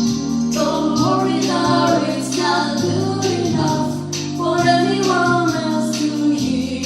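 Women's voices singing a song together in harmony over a keyboard arrangement with sustained backing chords.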